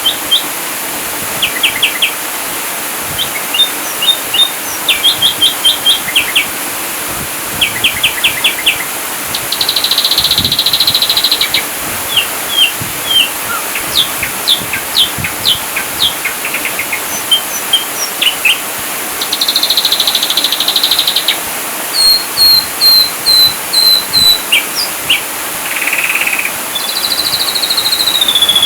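Ashy drongo singing a varied, fast-changing song: quick strings of short chirps, two buzzy trills, sharp slurred whistles and a rapid run of high notes, ending on a long drawn-out whistle.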